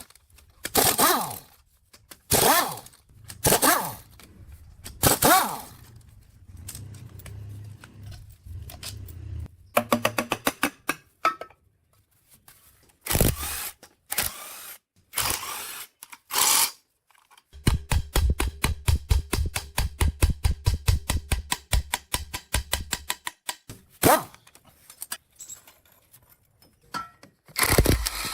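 Hand tools working on metal machine parts: a few scraping strokes, then a quick run of clicks, then a rapid even clicking of about six a second over a low hum for several seconds, with more single strokes near the end.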